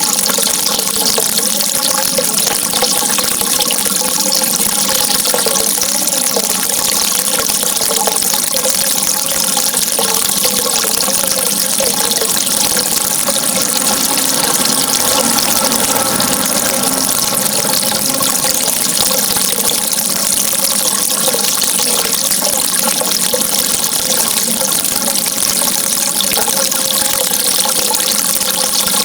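Running water, a steady continuous flow that stays even throughout without breaks.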